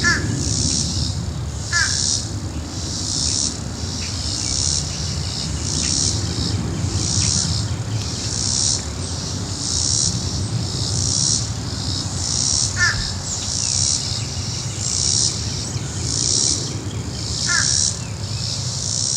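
Low, steady rumble of a departed jet airliner's wash still lingering overhead. Over it, insects buzz in an even pulse about one and a half times a second, and a bird gives four short falling calls.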